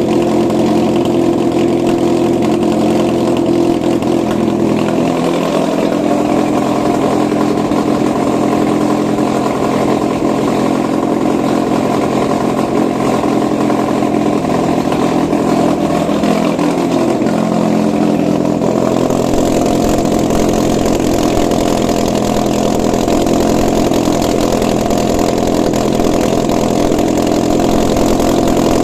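Suzuki J20A four-cylinder petrol engine running on a test stand. It runs steadily, with small shifts in its note about five seconds in and again near the two-thirds mark, after which it sounds a little harsher.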